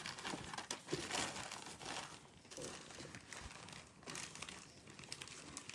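Quiet, irregular crinkling and rustling, as of something being handled close to the microphone.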